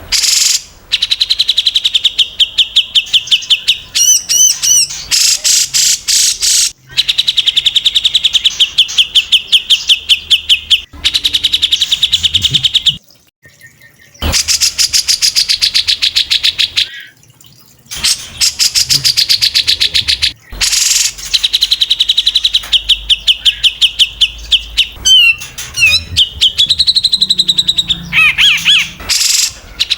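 Caged songbirds singing in fast 'tembakan' runs: rapid-fire chains of sharp repeated notes, broken by short pauses, with a few sweeping whistled notes mixed in.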